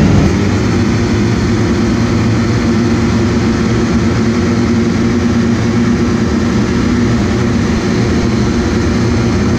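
Several motocross bike engines running together, heard as a steady blend of engine notes that holds its pitch with little rise or fall.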